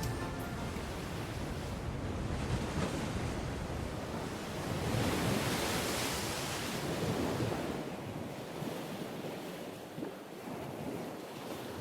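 Sea waves breaking as surf, a steady rushing wash that swells about halfway through and eases off near the end.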